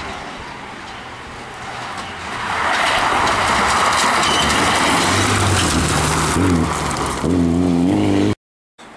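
Rally car coming through at speed: a loud rush of engine and tyre noise builds, then the engine note rises and falls through revs and gear changes. It cuts off abruptly near the end.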